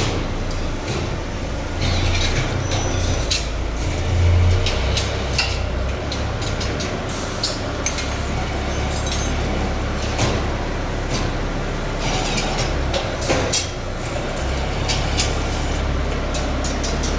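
Hydraulic press machinery running in a factory: a steady low hum with frequent sharp metallic clinks and knocks from sheet metal being worked.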